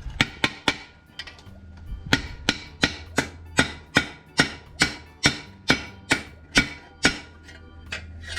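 Hammer blows on a steel sheet, about sixteen sharp ringing strikes: a few quick ones, then a steady two or three a second. The steel is being shaped by hand into a patch panel for a rusted car side sill.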